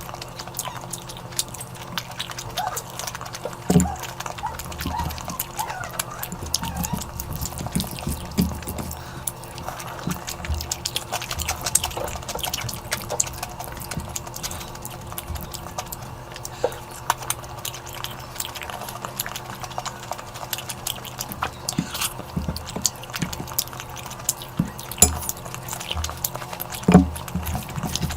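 Close-up wet eating sounds: rapid chewing, lip-smacking and squelching of mouthfuls of curry, as a dense string of quick wet clicks with a few louder smacks.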